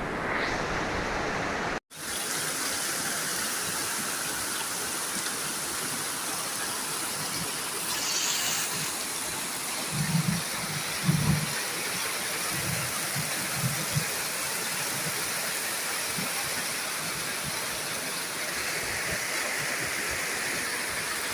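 Steady rush of water from floodwater and torrential rain, broken by a brief dropout about two seconds in and a few low thumps around the middle.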